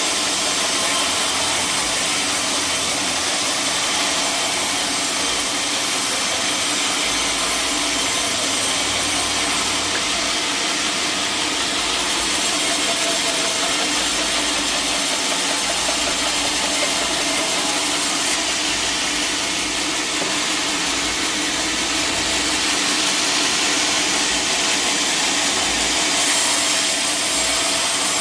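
Powered sawmill saw cutting through a log, running steadily at an even level with no pauses; the hiss in the highest range grows a little stronger twice, around ten seconds in and again from about eighteen to twenty-six seconds.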